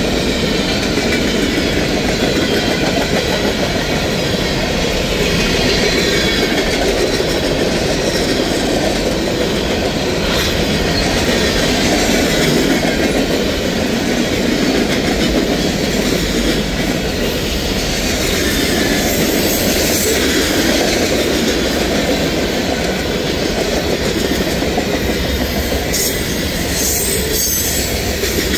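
A CSX mixed freight train's cars (boxcars, covered hoppers and tank cars) rolling past at speed, a steady rumbling rush of steel wheels on rail with clacking over the joints. A few sharper clicks come near the end.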